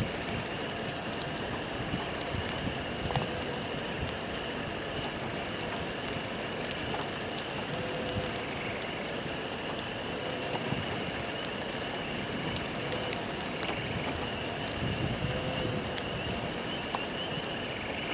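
Steady rain falling, with scattered drops ticking close to the microphone.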